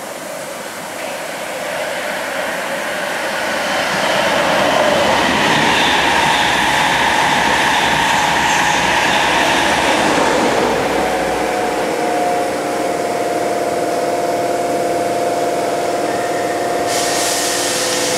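Southbound InterCity 225 express passing through at speed: a rush of wheels and air that builds over the first few seconds, stays loud until about ten seconds in, then falls away. Then a steady electric hum with several held tones from a waiting Class 321 electric unit, with a hiss starting near the end.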